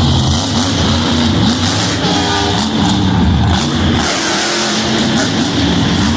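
Monster truck engine running hard and revving, its pitch rising and falling, with music playing over the arena loudspeakers.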